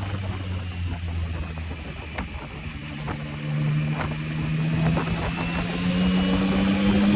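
Yamaha MT-09 inline three-cylinder engine under way. Its low steady note falls away about two seconds in, then it pulls again, rising slowly in pitch and getting louder toward the end, with a few sharp clicks.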